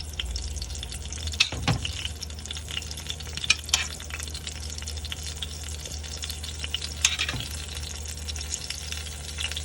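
Flour tortilla with cheese frying in oil in a hot skillet: a steady sizzle with scattered sharp pops and crackles, over a steady low hum.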